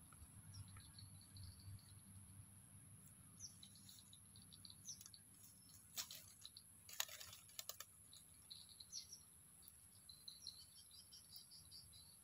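Faint chirping of small birds, with a steady high-pitched insect whine running underneath. A short cluster of sharp clicks or rustles comes about six to eight seconds in.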